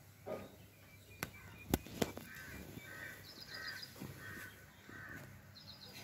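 Birds calling outdoors: one bird gives a run of about five calls, roughly two a second, while a smaller bird adds short high chirps. A few sharp taps sound in the first two seconds and are the loudest thing heard.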